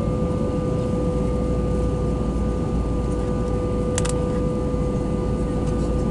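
Steady cabin noise of an Airbus A319 in flight: a deep rumble of engines and airflow with a steady hum through it, and one brief click about four seconds in.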